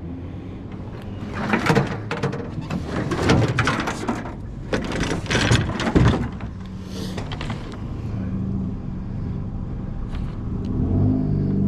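Vehicle running with a steady low rumble, with several spells of clattering and rattling over it.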